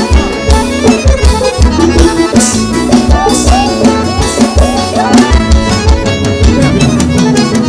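Forró band music in an instrumental passage between vocal lines: accordion lines over a steady, driving drum beat and bass.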